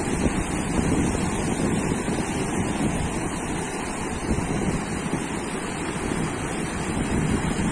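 Sea surf washing onto a beach in a steady, gently swelling rush, with wind buffeting the microphone.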